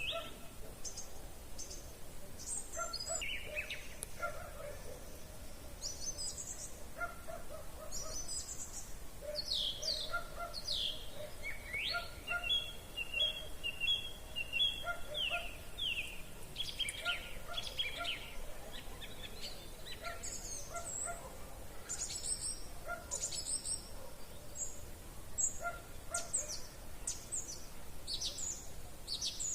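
Evening chorus of several songbirds singing overlapping phrases of whistles, chirps and rapid trills. A short, lower call repeats every second or two underneath.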